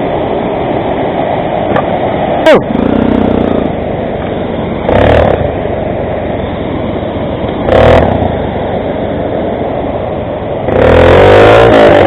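Motorcycle engine running under a steady rumble of riding noise, revving up in short bursts about two and a half, five and eight seconds in, and in a longer rev near the end.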